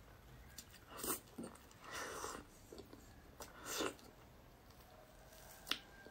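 Close-miked mouth sounds of eating soft cream cake: three short, wet chewing sounds, then a sharp click near the end.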